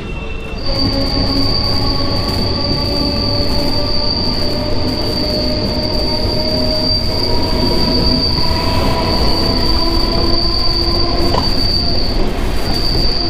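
Wheels of an electric suburban local train squealing on the rails: a high, steady screech that sets in about half a second in and holds, with fainter lower squeal tones, over the low rumble of the running train.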